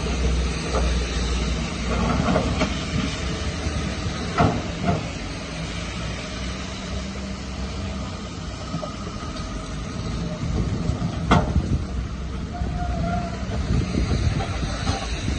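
Diesel engine of heavy earthmoving machinery running steadily with a low rumble, broken by a few sharp knocks, the clearest about four and eleven seconds in.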